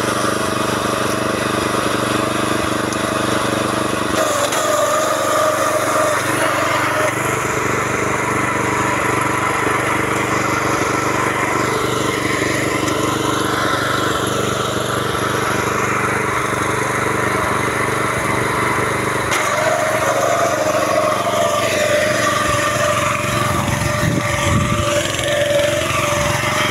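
Small petrol engine of a power weeder running steadily under work, its note shifting about four seconds in and again a little past the middle.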